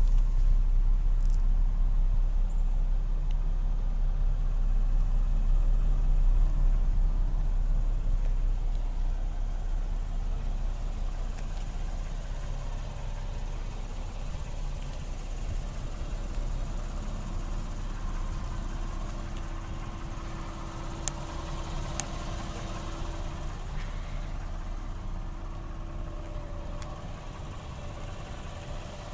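2013 Lexus GS F Sport idling: a steady low rumble, loudest at the rear of the car and growing fainter from about eight seconds in as the front is reached.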